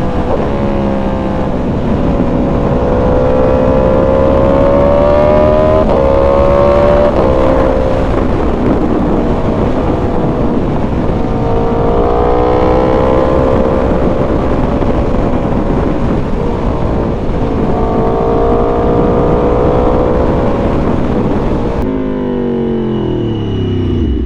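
Aprilia Tuono V4 motorcycle's V4 engine under way. Its pitch climbs through the revs and drops back at each of several gear shifts. Near the end the revs fall away as the bike slows.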